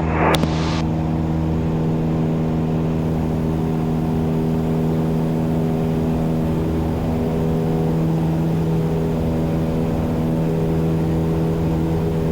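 Cessna 172's piston engine and propeller droning steadily at an even pitch, the aircraft climbing out after takeoff.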